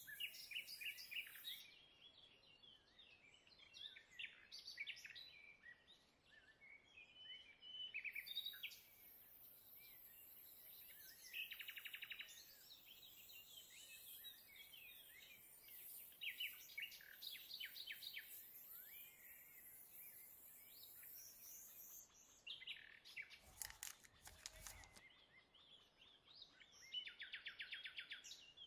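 Faint birdsong: birds chirping, with quick rapid trills now and then, over a light hiss. A few soft knocks come about two-thirds of the way through.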